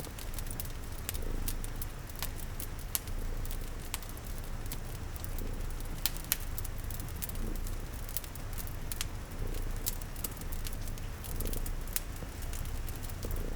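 A cat purring steadily in slow swells about every two seconds, mixed with the pops and snaps of a crackling fire and the steady patter of rain.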